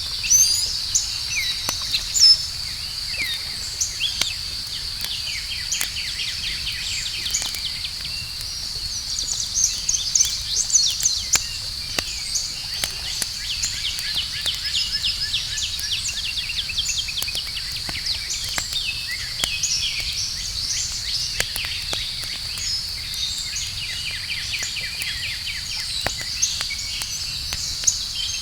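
Campfire crackling, with sharp pops now and then, over a steady high insect drone and frequent bird chirps and trills.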